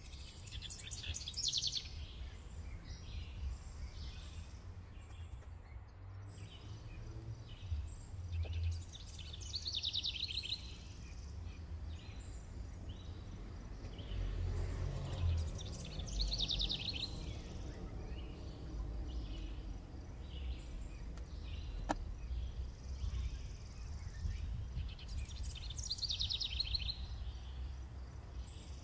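A songbird singing a short, fast trilled phrase that falls in pitch, four times at intervals of about seven to eight seconds, over a steady low rumble.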